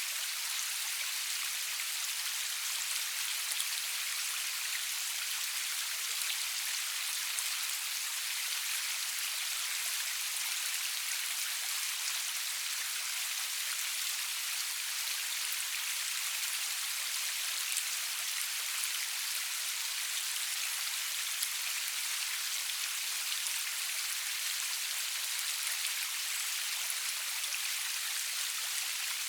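Steady rain falling, an even hiss of many fine drops with faint individual drop ticks.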